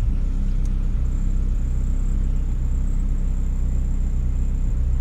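Turbocharged Honda Civic engine idling steadily, heard from inside the cabin, shortly after being started on a freshly uploaded tune for a new 4-bar MAP sensor. It idles smoothly on the slightly lean side, about 15 to 16 air-fuel.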